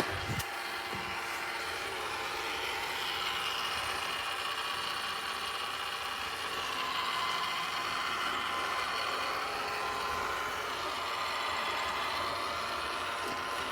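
Roomba robot vacuum running: a steady whir with a few steady high-pitched tones over it, and a single click right at the start.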